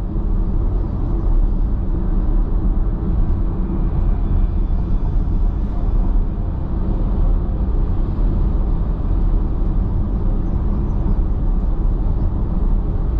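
Steady road and tyre rumble heard inside a car cabin while driving at highway speed.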